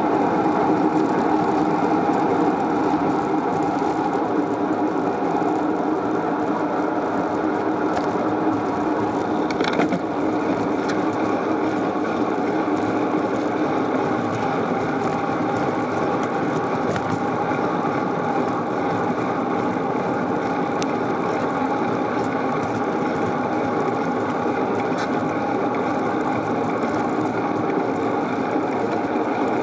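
Steady rushing noise of a bicycle ride, with a couple of brief clicks about eight and ten seconds in.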